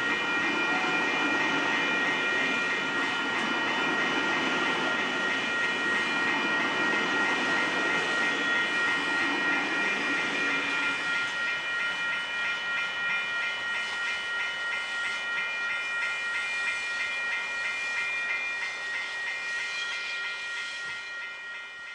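Waratah electric train departing and pulling away, its running noise fading gradually, with several steady high-pitched tones sounding throughout. The deeper rumble drops away about halfway through.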